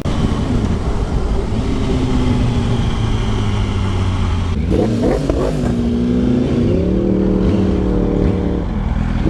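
2008 Yamaha YZF R1's inline-four engine running on the move, its pitch dipping and then climbing about halfway through as the bike pulls away again, over a heavy low wind rush.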